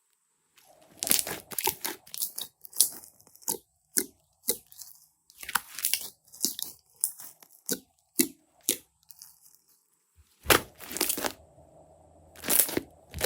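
Slime being squeezed and stretched by hand, giving irregular crackling and popping sounds, with a longer, louder crackling stretch about two thirds of the way through.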